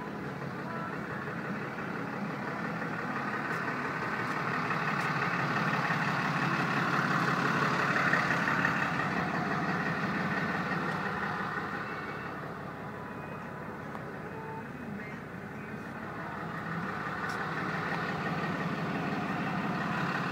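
A 6.7L Cummins diesel engine running, getting louder towards the middle, easing off, then building again near the end.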